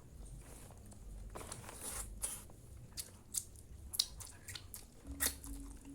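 Eating sounds: a string of sharp clicks and short scrapes, like spoons on plates, with chewing. A steady low hum starts about five seconds in.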